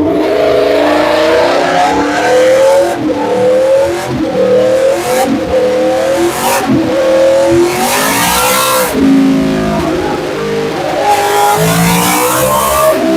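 2013 Yamaha R1's crossplane inline-four with an aftermarket exhaust at full throttle on a dyno. The engine note rises in short steps about a second apart, then makes one long climb to high revs that peaks about nine seconds in and drops off, before climbing again near the end.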